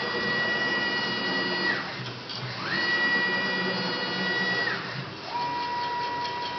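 CNC milling machine's axis drive motors whining as the machine moves. A high steady whine glides up, holds for about two seconds, glides down, then does the same again. Near the end a lower-pitched steady whine takes over.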